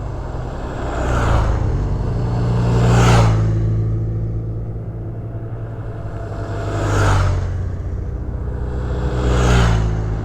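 Yamaha Ténéré 700's parallel-twin motorcycle engine running under way, its pitch rising and falling with the throttle, with the whole sound swelling louder four times.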